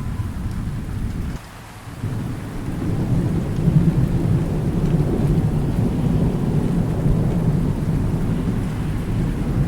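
Rolling thunder rumbling over steady rain. The rumble drops away briefly about a second and a half in, then swells back, loudest around four seconds in, and keeps rolling.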